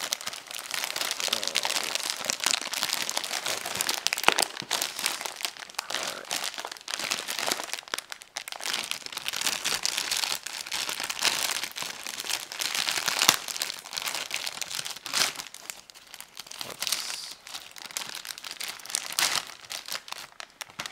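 Inner bag of a cereal box being handled and pulled open: continuous crinkling with many sharp crackles.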